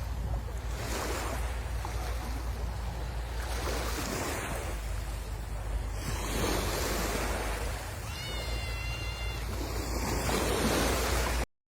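Sea waves breaking and washing up on the shore, surging every few seconds, with wind rumbling on the microphone. A short high-pitched call sounds about eight seconds in, and the sound drops out briefly near the end.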